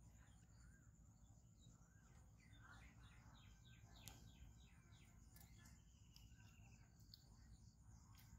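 Near silence: faint outdoor ambience with distant birds chirping, including a quick run of repeated chirps a few seconds in.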